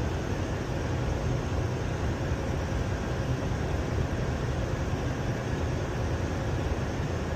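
Steady low rumble of a tractor-trailer truck under way: engine and road noise running without a break.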